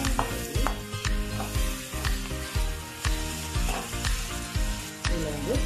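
Chicken masala gravy sizzling in oil in a kadai while a perforated metal spatula stirs it, scraping and knocking against the pan about twice a second. The oil has separated from the cooked-down masala.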